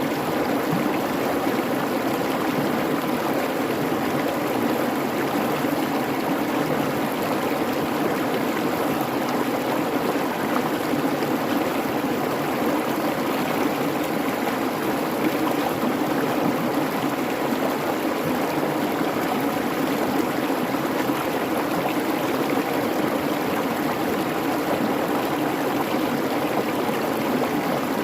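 A babbling creek running steadily over its bed, an even rushing and burbling of water with no change.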